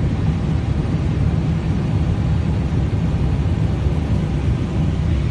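Steady low rumble of an Emirates Airbus A380's four jet engines as the airliner comes in to land.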